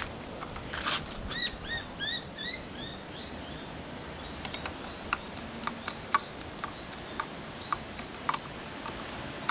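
A bird calling a quick series of about eight arched chirps, followed by scattered light clicks and ticks.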